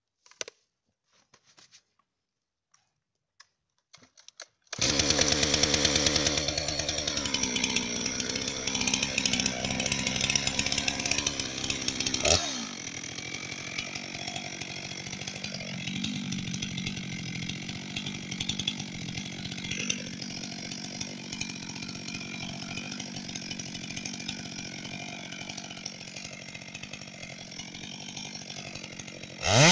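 Chainsaw starting up about five seconds in after near silence with a few faint clicks, then running loud; about twelve seconds in the sound drops suddenly to a quieter level and carries on, growing loud again right at the end.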